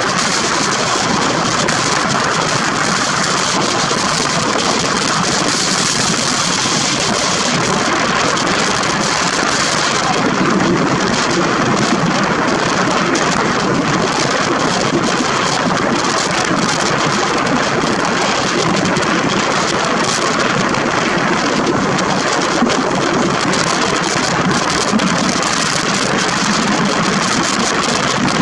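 Steady running noise of a diesel-hauled passenger train heard from an open coach window: the continuous rush of wheels on rails, getting a little deeper about a third of the way in.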